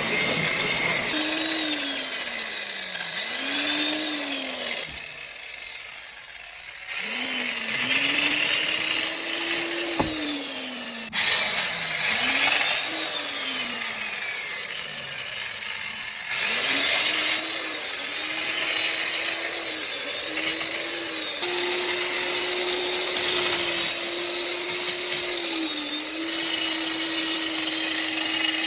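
Restored STIHL electric chainsaw's motor being tested: several times it spins up to speed and winds down as the trigger is pulled and released. Near the end it is held running at a steady speed.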